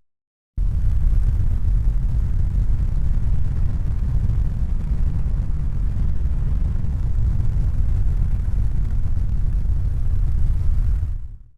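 Steady, deep rumbling noise with no distinct tones. It cuts in abruptly about half a second in and fades away just before the end.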